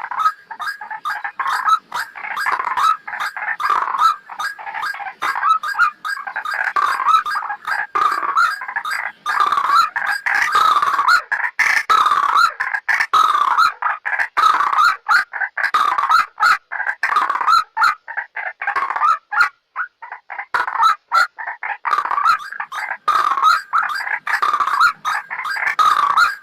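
White-breasted waterhen (ruak-ruak) calling in a rapid, continuous series of repeated notes, several a second, with a short lull about twenty seconds in. This is the bird's call used as a trapping lure.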